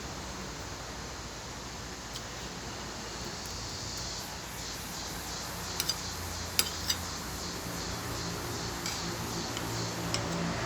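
Cutlery clinking against a plate during a meal: a few sharp clicks, most of them between about six and seven seconds in, over steady background noise.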